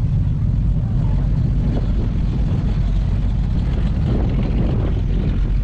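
A car engine idling steadily, a low even note with no revving.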